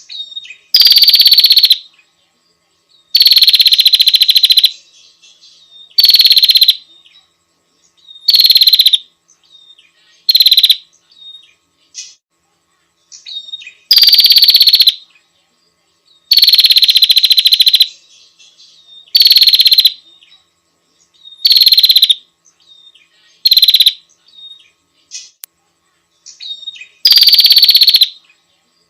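Female prinia (prenjak) calling to a male: loud, raspy, buzzing trills about a second long, repeated every two seconds or so, with faint short chips between them.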